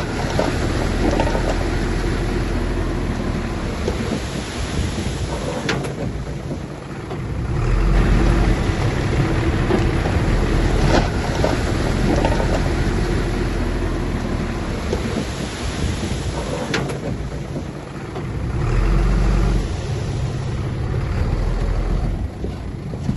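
Bulldozer at work: diesel engine running with a steady low rumble that rises under load twice, over clanking tracks, with a few sharp knocks.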